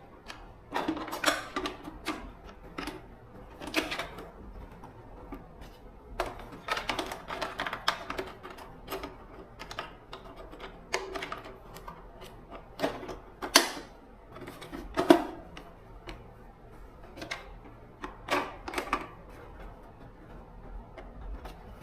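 Irregular clicking and clinking of tools and small metal parts being handled during a repair. There are bursts of light taps, with two sharper knocks a little after the middle.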